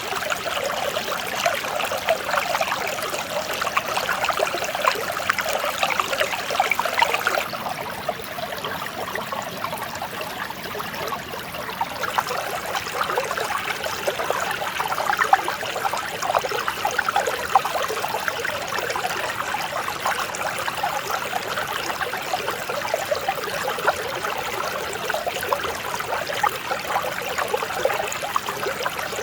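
Mountain stream running over rocks: a steady rush and trickle of water, with a slight change in tone about seven seconds in.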